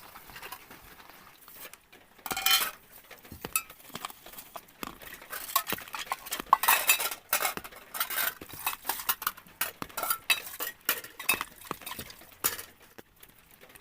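Kitchen utensils and dishes clinking, knocking and scraping in an irregular run of short sounds, as cooking is prepared.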